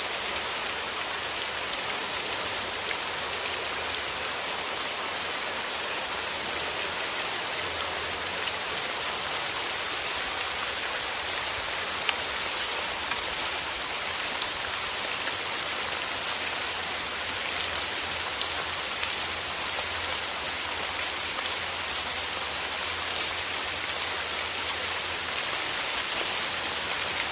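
Steady rain falling, with the fine patter of many individual drops striking surfaces over an even hiss.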